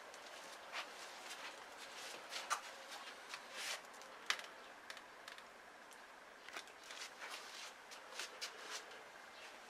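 Irregular soft clicks, taps and rustles of objects being handled, a dozen or more short strokes at uneven spacing, over a faint steady hiss.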